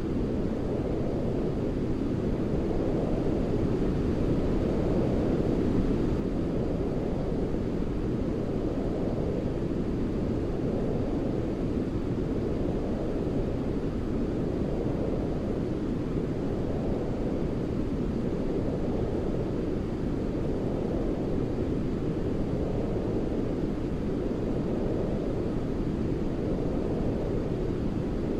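Steady, deep, rumbling sleep noise of the brown-noise kind, heavy in the low end with little hiss above, slowly swelling and easing every few seconds.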